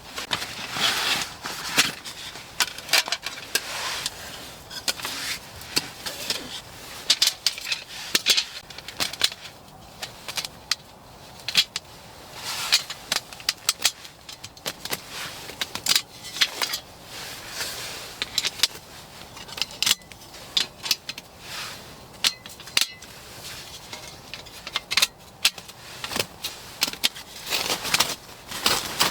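Irregular clicks, clinks and rustling of camping gear being handled during a snow-camp setup.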